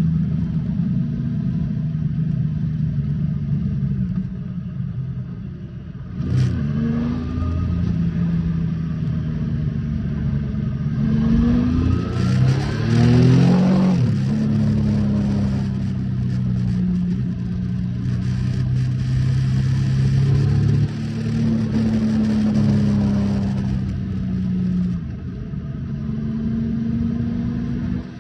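Triumph Speed Triple S 1050's inline three-cylinder engine running under way, its pitch rising and dropping several times as the bike accelerates, over wind and road noise.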